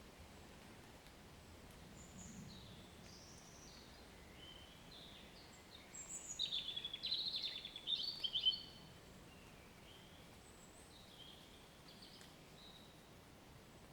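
Wild songbirds singing and calling, with a louder, rapid run of chirping notes from about six seconds in that lasts two to three seconds, then a few scattered calls over a faint steady background hiss.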